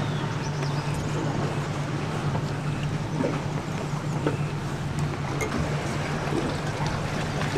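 Tour boat's engine running steadily with an even, low hum, over a wash of water and wind noise.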